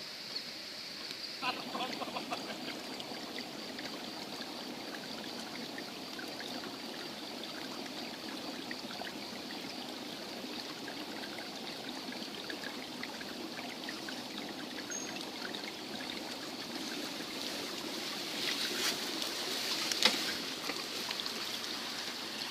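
Steady rushing noise of running water, with a few sharp clicks near the end.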